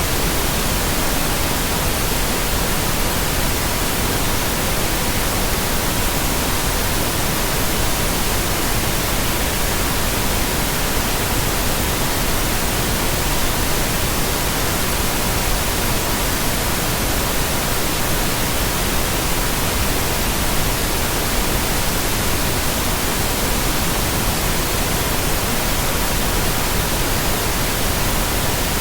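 Steady pink noise with a continuous pure tone near 963 Hz held beneath it, unchanging throughout.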